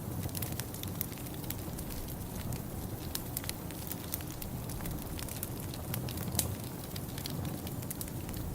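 Wood fire crackling in a fireplace: scattered sharp pops and snaps, one louder pop about six and a half seconds in, over a steady low rumble.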